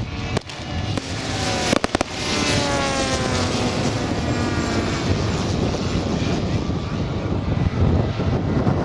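Engines of large RC model warbirds running, one passing with its pitch gliding down. About two seconds in there is a quick run of sharp bangs from the display's pyrotechnics.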